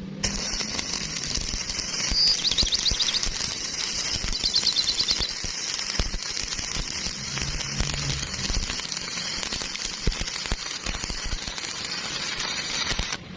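Electric arc welding: the arc gives a steady crackling sizzle, dense with small pops, that runs without a break.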